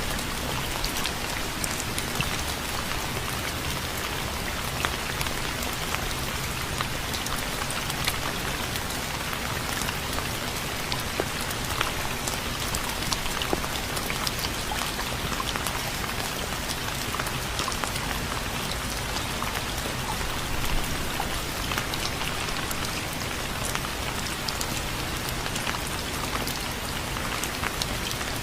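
Steady, dense rainfall with many individual drops pattering on a surface.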